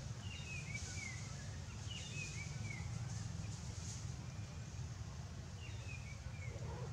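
A bird calls three times, each a short phrase of slurred whistled notes falling in pitch, over a steady low rumble.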